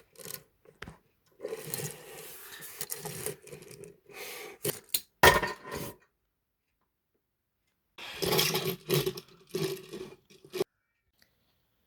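Scraping and rubbing from a toy being pushed and handled by hand, in irregular bursts. The sound cuts out completely for about two seconds midway, then resumes briefly.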